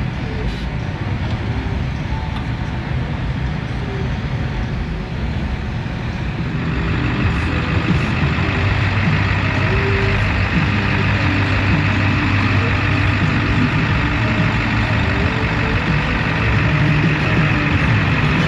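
Truck engine running steadily, getting louder about seven seconds in.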